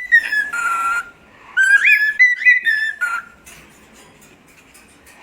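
Bird whistling: clear whistled notes with quick upward slurs, broken by a short raspy burst about half a second in, then quiet for the last two seconds.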